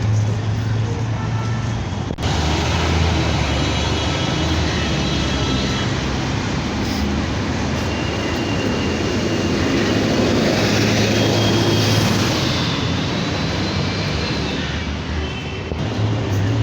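Steady city traffic noise: a continuous rumble of road vehicles with a low hum.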